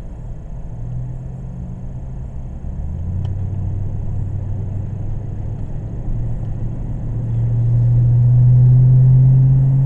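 Engine and tyre noise of a moving vehicle heard from inside its cabin as it picks up speed, a low drone that steps up in pitch and grows louder about seven seconds in.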